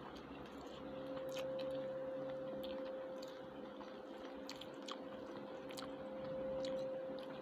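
Faint chewing and the small clicks of eating, over a steady hum.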